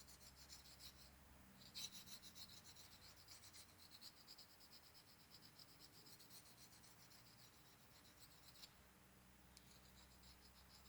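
Faint, quick back-and-forth scraping of a hand-forged knife blade being sharpened, stroke after stroke, with two short pauses.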